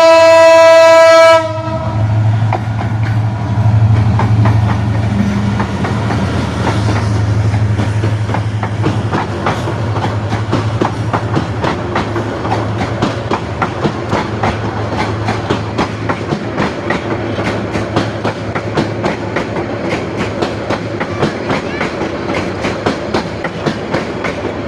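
A train horn sounds loudly and stops about a second and a half in. Then a train runs on with a steady low rumble and a rapid clickety-clack of wheels over the rail joints.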